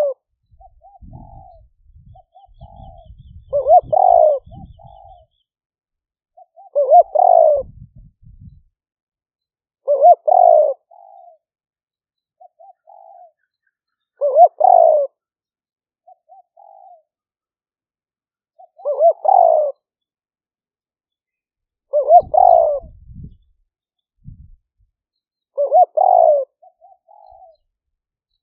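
Decoy spotted dove cooing: a loud phrase about every four seconds, with softer short coos between, the territorial call used to lure wild doves to a trap.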